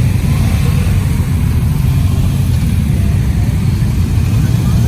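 Motorcycle on the move: a steady rumble of engine and wind noise, loudest low down.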